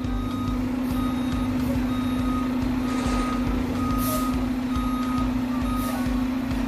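Garbage truck backing up: its reversing alarm beeps about once a second over the steady running of the truck's engine, with a few brief hisses.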